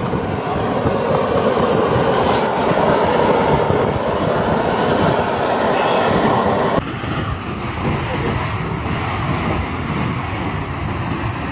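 A loud, steady rushing roar with no clear rhythm, changing abruptly to a somewhat quieter, thinner rush about seven seconds in.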